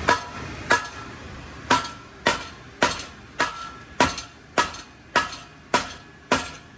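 Hammer blows on a steel exhaust pipe, about eleven sharp metallic strikes at roughly two a second, each with a brief ring. The pipe is being knocked loose to work the old catback off its joint.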